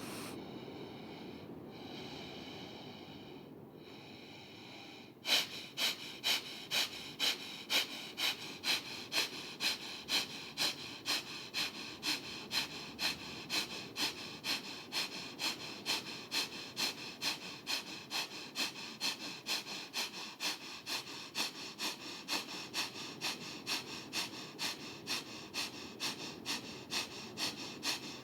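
Kundalini Breath of Fire: rapid, even breaths in and out through the nose, each exhale a sharp snort-like puff. After a softer breath at the start, about five seconds in it settles into a steady rhythm of about two breaths a second.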